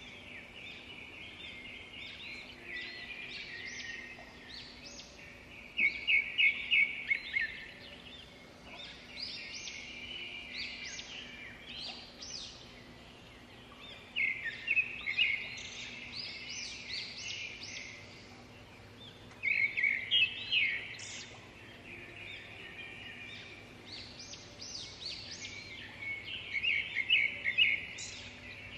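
Songbirds singing: loud bursts of rapid chirps and trills come every few seconds, with quieter chirping between them.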